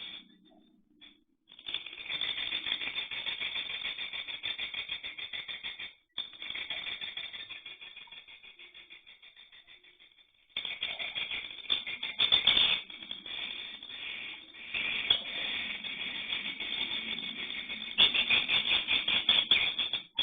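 Week-old edible-nest swiftlet chicks making rapid, high, rattling chirps, many to the second. The calls break off briefly twice and come back louder in the second half.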